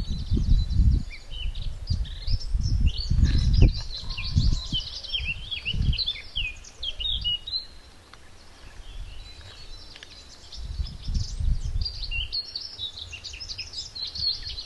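Songbirds singing a rapid, unbroken jumble of chirps and whistles, with gusts of wind buffeting the microphone, heaviest in the first few seconds and again about eleven seconds in.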